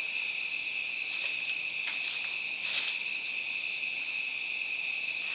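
Insects chirring steadily in a high pitch in the background, with a few faint light taps.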